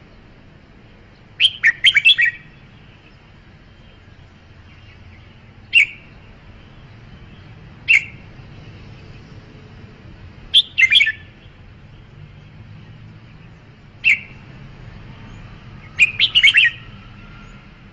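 Red-whiskered bulbul singing: short bursts of quick, bright chirping phrases alternating with single sharp notes, a call every two to four seconds, over a faint steady low hum.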